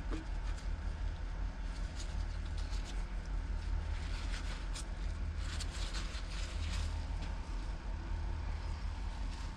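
Steady low background hum with a few light clicks and rustles from hands handling the trimmer's small rubber fuel lines and tank.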